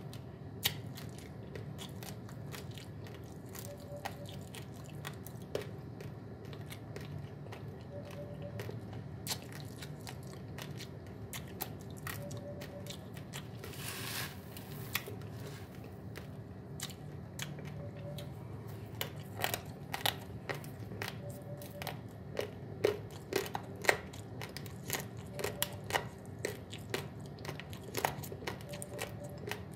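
Dry uncooked basmati rice grains crunched and chewed in the mouth: sharp crackling bites that come thicker and louder in the second half. About halfway through there is a brief rustle as a hand scoops dry rice from a plastic tub.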